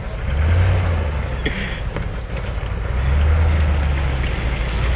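Land Rover's engine running under load off-road, its low rumble swelling twice, with a short hiss about a second and a half in.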